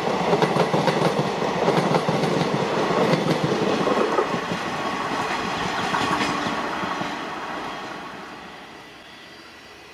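Passenger coaches of an Indian Railways express rolling past, their wheels clattering rhythmically over the rail joints. After the last coach goes by, the clatter fades away over the last few seconds to a faint background.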